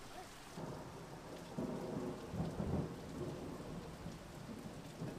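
Rain falling steadily. A louder rumble rises about half a second in, is strongest around two to three seconds, and eases off near the end.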